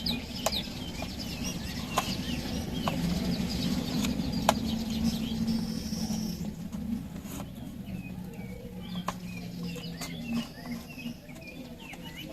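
Chickens clucking with small birds chirping, and a few sharp clicks scattered through.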